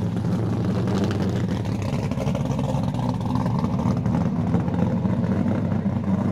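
Group A and C touring car engines running, a steady low engine drone with one engine note rising in pitch about halfway through.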